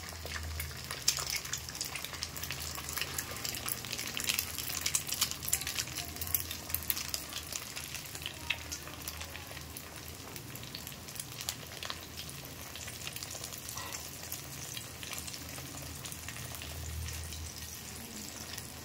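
Quail eggs frying on an iron tawa: a steady sizzle with many fine crackles and pops, which thin out in the second half.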